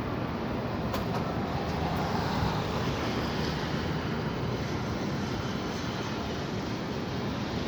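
High wind blowing steadily as a dense rush of noise with a heavy low rumble, swelling a little about two to three seconds in.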